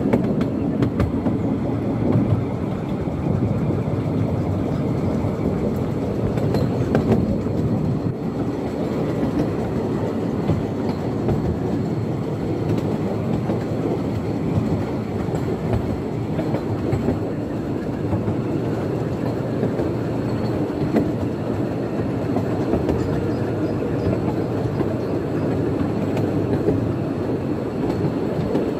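Steady rumble of 15-inch gauge miniature railway carriages running along the track, with a few light clicks from the wheels on the rails, heard from aboard an open carriage.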